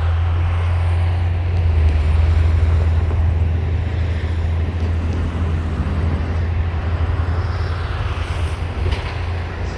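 Loaded coal train rolling past with a steady low rumble, easing slightly toward the end.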